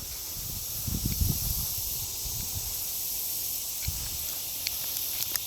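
A steady high-pitched chorus of insects droning outdoors, with a low rumble and a few soft knocks and clicks.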